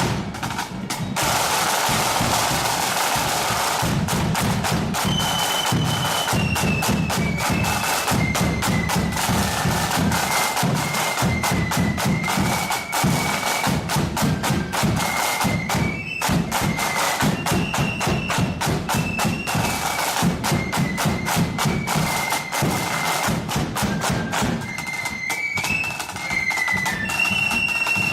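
Blood-and-thunder marching flute band: snare drums rattling fast with bass drum underneath, and from about five seconds in the flutes playing a high melody over the drums.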